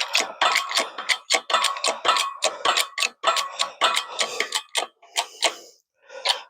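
Hydraulic press jack being pumped by hand, a quick regular clicking about three strokes a second with a metallic ring, building pressure to push a universal joint's bearing cap out of the driveshaft yoke.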